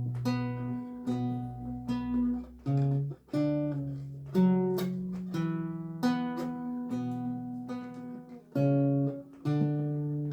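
Lute music: plucked notes and chords, each struck and left to ring out, with low bass notes moving under a higher melody.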